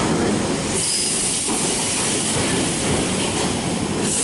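London Underground Waterloo & City line train (1992 tube stock) running out of the platform into the tunnel, with steady rail and wheel noise and a high hiss of wheel squeal from about a second in.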